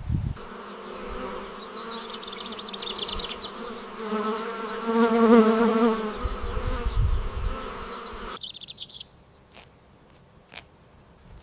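A flying insect buzzing close by, its pitch wavering up and down and loudest in the middle, then cutting off abruptly; a short bird chirp and a few faint clicks follow.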